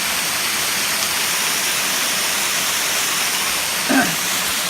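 Steady rush of falling water from a partly frozen waterfall, with a brief vocal sound about four seconds in.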